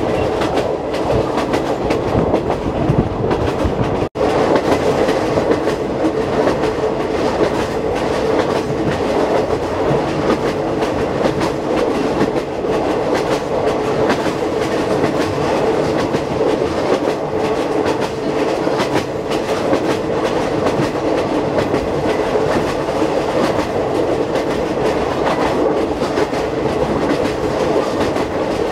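Passenger train running steadily along the track, heard from on board: a constant rumbling drone with a continual clatter of the wheels over the rails. The sound drops out for an instant about four seconds in.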